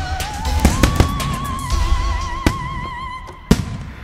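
Aerial firework shells bursting in several sharp bangs, the loudest near the end. They sound over a music soundtrack carrying one long held note with a wavering vibrato.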